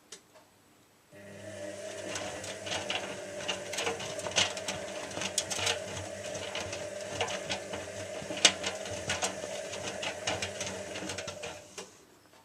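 Zanussi washing machine running: a steady motor hum with rapid, irregular clicking and rattling, starting abruptly about a second in and stopping shortly before the end.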